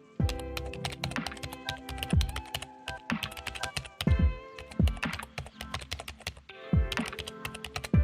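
Computer-keyboard typing, rapid clicking keystrokes, over background music with held tones and low thumps.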